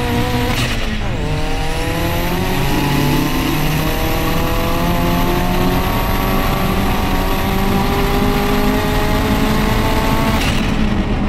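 Turbocharged Audi S3 four-cylinder engine in a VW Lupo accelerating hard, heard from inside the cabin. The revs drop at a gear change about a second in, then climb steadily through a long pull until the sound cuts off near the end.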